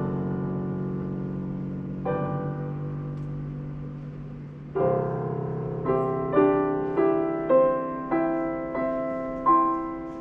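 Solo piano playing slowly: held chords ringing, then from about five seconds in a chord followed by notes struck about twice a second, the last one left to ring and fade.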